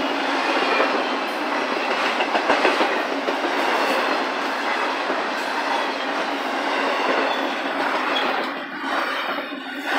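Double-stack intermodal well cars of a freight train rolling past close by: a steady rush of steel wheels on the rails, with occasional sharp clicks. It dips briefly near the end.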